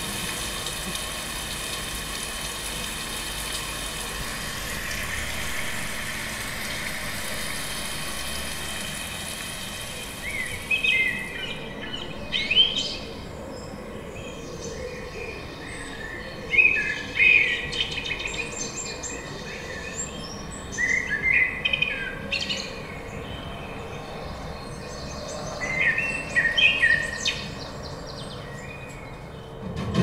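Small birds chirping in short bouts every few seconds, over steady outdoor background noise. The chirps begin about ten seconds in; before that there is only a steady hiss.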